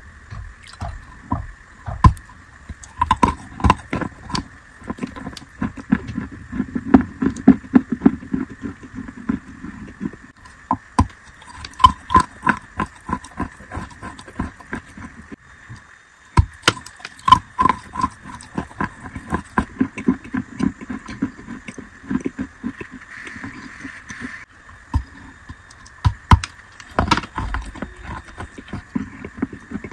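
Wet chalk being bitten and chewed close to the microphone: a long, irregular series of sharp crunches and clicks, several a second.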